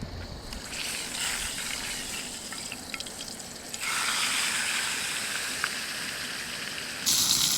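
Wind rushing through trees: a steady hiss, louder and brighter about four seconds in and again near the end.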